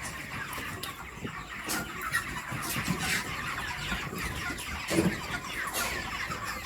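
A flock of broiler chickens clucking continuously, with a few scattered knocks.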